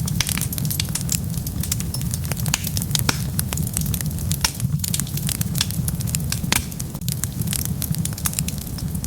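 Wood fire crackling, with dense, irregular pops and snaps over a steady low rumble.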